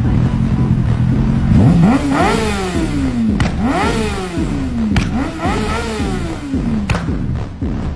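Motorcycle engine running steadily, then revved three times in a row, each rev climbing quickly and falling back slowly.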